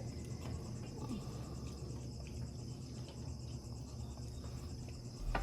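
Crickets trilling steadily at a high pitch over a low steady hum, with a short knock near the end.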